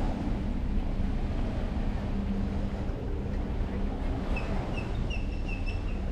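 Wind rumbling on the microphone over a steady low hum and surf, and from about two-thirds of the way in, a small bird chirping, short notes repeated about twice a second.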